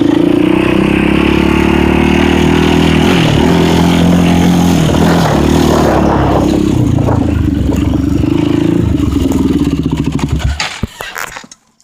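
2006 Kawasaki KX100 two-stroke dirt bike engine running loud close to the microphone, its pitch rising and falling a few times as it is revved. The engine sound cuts off sharply near the end, followed by a few clattering knocks.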